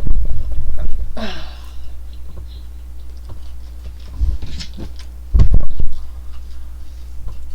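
Dull low thumps and mouth noises from someone eating chicken nuggets close to the microphone, the loudest thump about five and a half seconds in, over a steady low hum.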